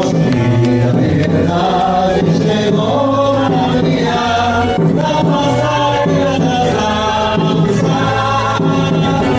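Live samba band: several voices singing together over samba drums and a low repeating bass line, continuous and loud.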